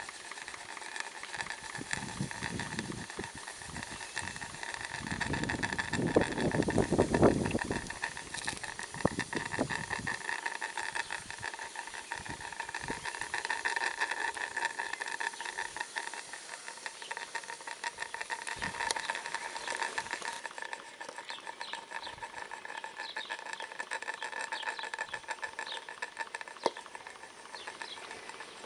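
Small model vertical steam engine running quickly on steam, a fast even ticking of its beats over a steady hiss. Its exhaust, sent up the boiler chimney, chuffs and gurgles as part of the steam condenses into water there, with a louder rumbling surge about six to eight seconds in.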